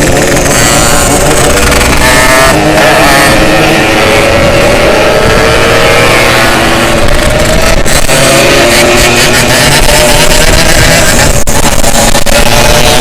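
Two-stroke Yamaha motorcycle engine under hard acceleration. Its pitch climbs through each gear and drops back at the shifts, about 8 and 11 seconds in.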